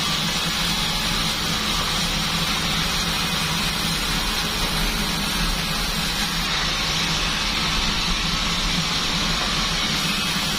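Pandan bandsaw sawmill machine running steadily: a constant low motor hum under a steady hiss.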